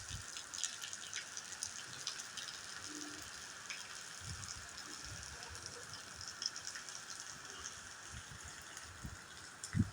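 Rain falling steadily, with many small drop hits splashing over a constant hiss. A few brief low thuds come now and then.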